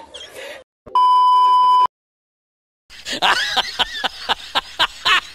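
A steady one-second beep tone, a censor-style bleep, starts about a second in and stops abruptly. Dead silence follows, then a quick run of short clicks and squeaky chirps from about three seconds in.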